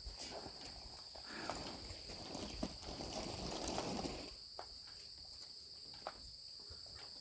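Insects chirring steadily at a high pitch, with footsteps scuffing along a path for about the first four seconds, then only a few faint clicks.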